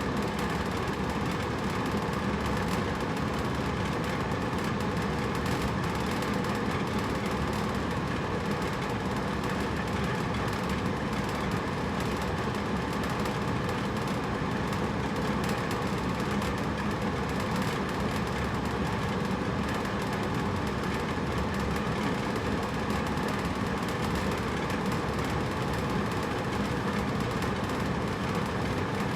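Hotel room air conditioner running steadily: a constant hum with a steady rush of air, unchanging throughout.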